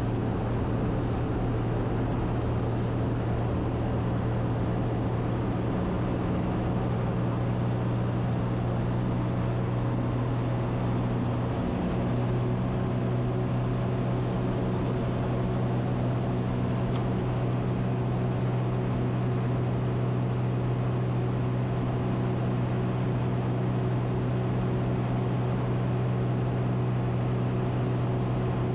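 Ikarus C42's Rotax 912 flat-four engine and propeller running steadily at takeoff power, a loud even drone heard inside the cockpit during the takeoff and climb-out.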